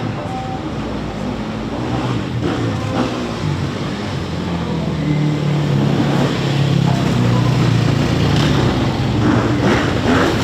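Motorcycle engine running, getting louder from about halfway through.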